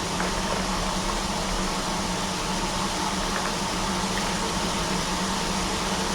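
A steady fan running: an even hiss with a constant low hum and no changes.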